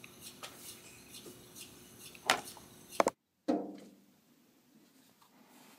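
A robin striking the glass deck door: a sharp knock a little over two seconds in, followed by a quick double click. After a brief dropout, a lower, ringing thud fades away.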